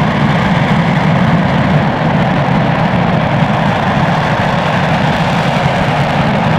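RS-25 liquid-hydrogen and liquid-oxygen rocket engine running steadily in a static hot-fire test: a loud, unbroken rumble with a hissing top.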